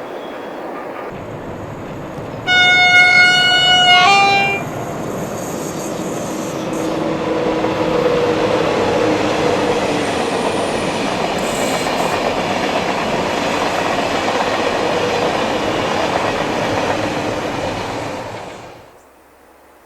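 A train sounds its horn, a two-note blast of about two seconds with the second note slightly higher. It then passes slowly, its rumble swelling and holding steady before cutting off abruptly near the end.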